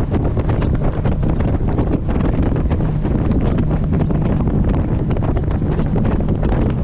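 Heavy wind buffeting the microphone of a camera on a moving boat. Underneath runs the boat engine's steady drone, and there is constant crackling from the wind and spray.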